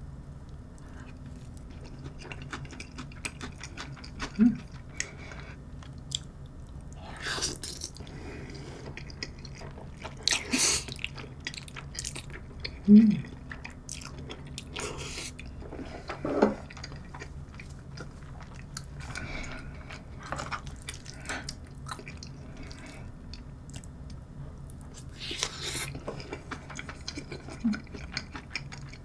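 Close-miked chewing of creamy spaghetti with garlic scapes, wet mouth clicks throughout, with a few louder slurps of noodles.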